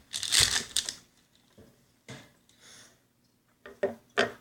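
Rustling and clicking handling noises while craft materials are worked on a table, with a loud rustle in the first second and a few short clicks near the end.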